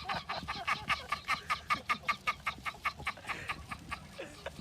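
Chicks peeping in a rapid run of short, high cheeps, about six a second, thinning out near the end.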